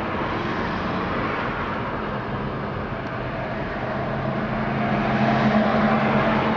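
A heavy truck's engine running steadily. It swells louder for a couple of seconds past the middle, then eases back.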